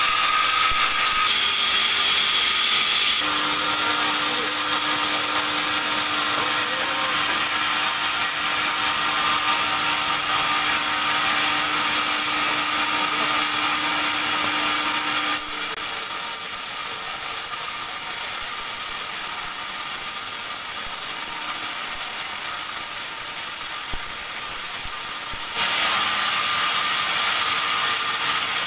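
Large band sawmill running and sawing a teak log into boards: a loud, steady mechanical noise with a high whine, its tone shifting abruptly several times.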